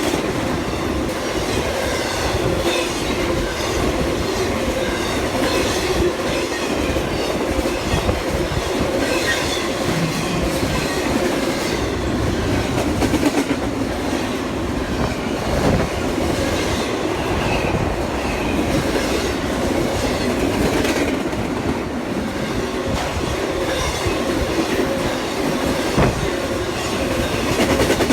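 Railroad cars rolling steadily past, their wheels clacking over the rail joints, with some squeal from the wheels on the rail.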